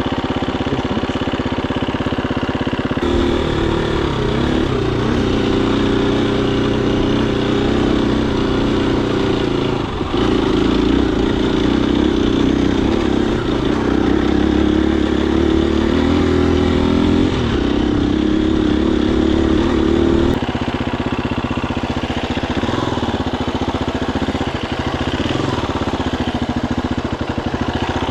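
Husqvarna FE250 single-cylinder four-stroke dirt bike engine running under way, its note shifting as the throttle opens and closes. It is louder for most of the middle and drops back near the end.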